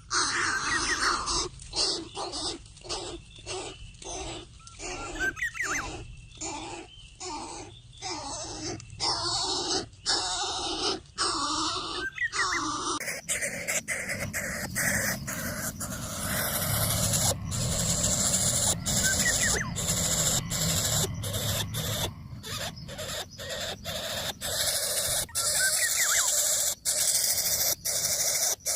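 Birds calling, the sound broken up by many short gaps.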